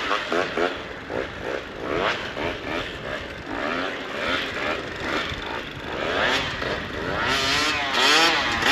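KTM 150 two-stroke dirt bike engine revving up and down under riding, its pitch rising and falling with the throttle. It is loudest, with the widest swings, near the end.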